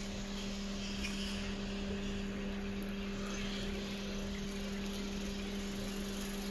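A steady low hum, a constant tone with its overtone, runs under an outdoor din of faint high chirps and squeaks from a large roost of fruit bats.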